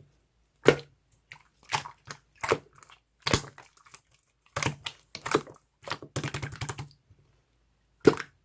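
Irregular bursts of sharp clicks and crunching, about ten short clusters with gaps between them, the last a single sharp click near the end.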